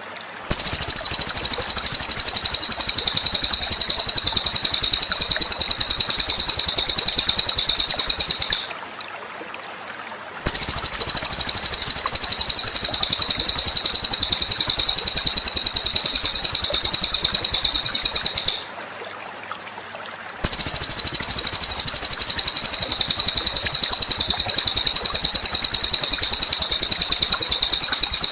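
Recorded songbird tutoring track: a fast, high trill held for about eight seconds, repeated three times with short pauses between, as a loop.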